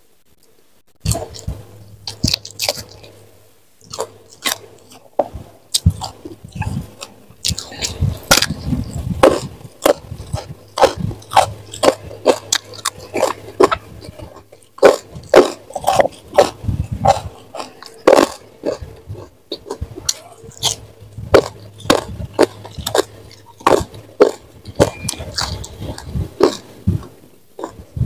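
Close-miked chewing of food, a dense run of crisp crunches and wet mouth clicks, two or three a second, starting about a second in.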